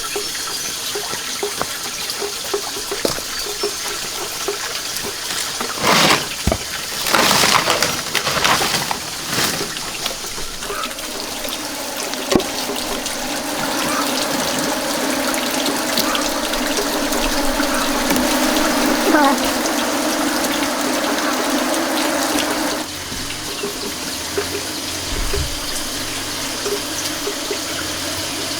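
Water running and splashing, with several louder splashes between about six and ten seconds in; a steadier rush of water follows and stops suddenly about 23 seconds in.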